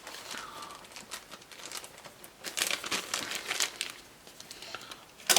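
Hands handling laptop parts: scattered small clicks and rustling crackles, with one sharp click near the end.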